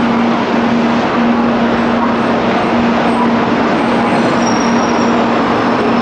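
300 series Shinkansen train moving slowly past along the platform close by: a steady, dense rush of running noise with a low hum that breaks off now and then.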